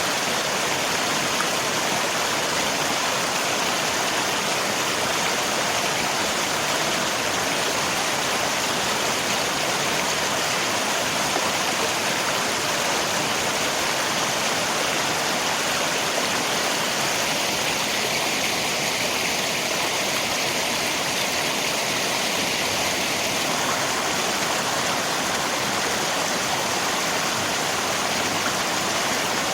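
River water rushing steadily together with falling rain, an even unbroken wash of water noise.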